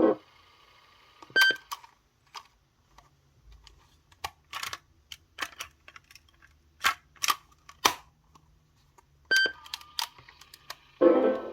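Irregular sharp plastic clicks and clacks, typical of a cassette Walkman's buttons and tape mechanism being worked by hand. Two brief beep-like tones sound about a second and a half in and near the end.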